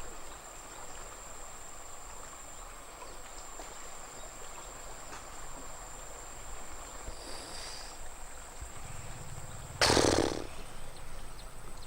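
Outdoor ambience: a steady soft rush of noise with a thin, steady high-pitched whine over it. A sudden loud burst of rushing noise lasts about half a second near the end.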